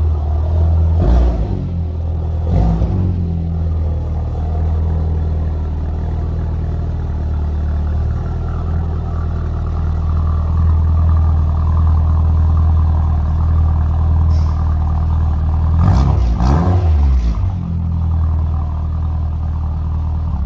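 Car engine running steadily under way, a low drone with road noise, changing pitch briefly about a second in, at two and a half seconds, and again around sixteen seconds in.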